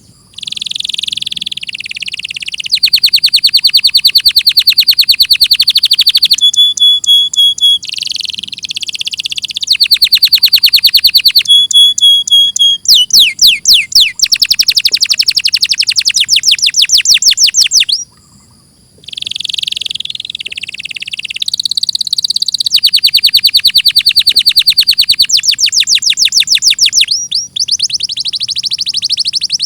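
Domestic canary singing long song phrases of fast trills and rapidly repeated notes, high-pitched, with a short pause about two-thirds of the way through.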